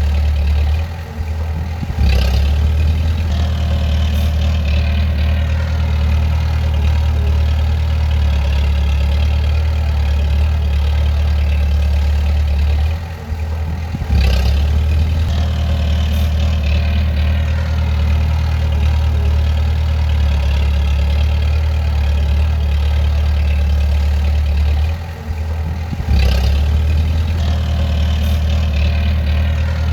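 Bulldozer's heavy diesel engine running steadily with a deep drone. Three times, about twelve seconds apart, the sound briefly drops away for about a second and comes back with a sharp clank.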